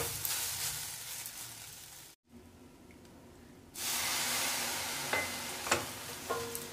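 Vegetable and oats mixture sizzling in a steel kadai, stirred and scraped with a wooden spatula. The sizzle fades and breaks off about two seconds in, then starts again suddenly and louder a little past the middle as water drops are sprinkled onto the hot mixture, with a few sharp knocks of the spatula on the pan.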